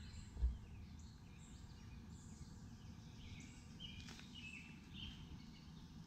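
Birds chirping now and then, short high chirps over a low steady rumble of outdoor background noise.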